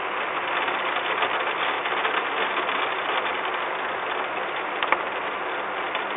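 Heavy rain pattering steadily on the nest box, railing and camera housing, a dense hiss of many small drop ticks, with one sharper tap about five seconds in.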